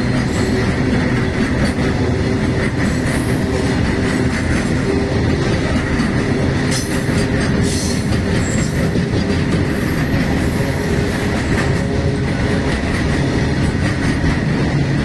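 Freight train running on the track, its wagons giving a steady loud rumble and rattle, with a faint high wheel squeal about two-thirds of the way through.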